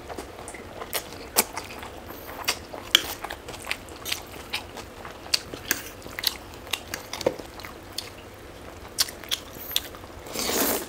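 Close-miked chewing and biting of food, with frequent short, sharp mouth clicks at an irregular pace, and a louder rush of noise lasting under a second near the end.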